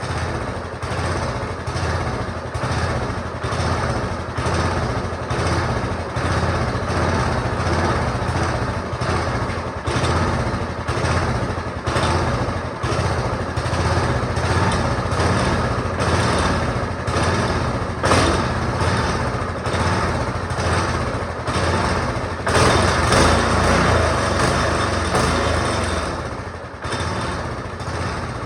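Small go-kart engine running steadily with a fast, even pulse. It runs a bit louder for a few seconds near the end, then eases off.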